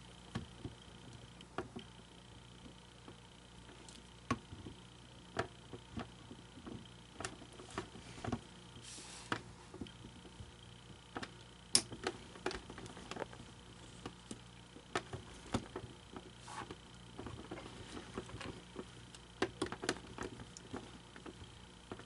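Scattered small clicks and taps of hands handling small plastic parts and tools, over a faint steady hum.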